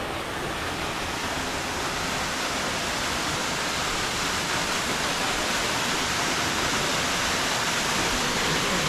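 Waterfall rushing steadily, a dense even roar of falling water that grows slowly a little louder.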